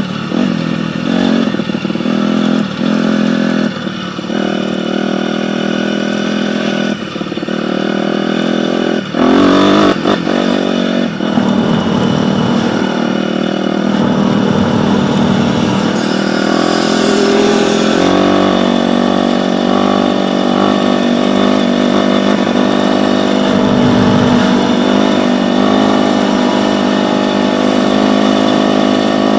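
Dirt bike engine running hard. In the first ten seconds the note drops out briefly several times as the throttle is chopped or gears are shifted, then it holds a steadier drone.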